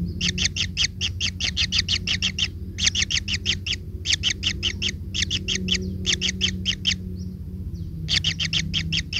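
A bird calling in rapid chattering series of short repeated notes, about six a second, in bursts of one to two seconds with brief pauses, over a steady low hum.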